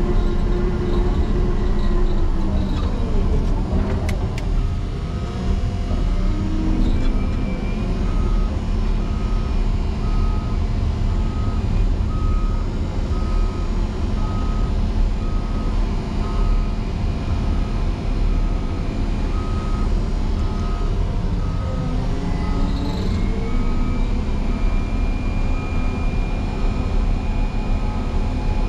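Motor grader's diesel engine running steadily, its pitch dropping and climbing back twice. From about eight seconds in, a backup alarm beeps in an even series, a sign the grader is reversing.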